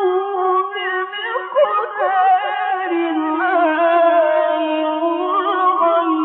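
Male Quran reciter's voice in slow melodic recitation, holding long drawn-out vowels with quick ornamental turns and sliding down to a lower note about three seconds in. The sound has no high end, with nothing above about 4 kHz.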